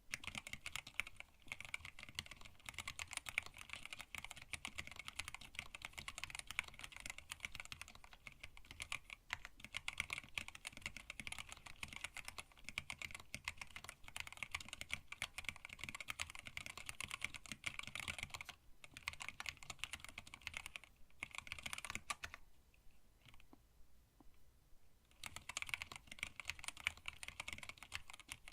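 Continuous fast typing on a custom mechanical keyboard with linear Tealios switches and PBT keycaps in a stacked acrylic case: a dense run of keystroke clacks, pausing briefly about two-thirds of the way in, then going quiet for a few seconds before picking up again near the end.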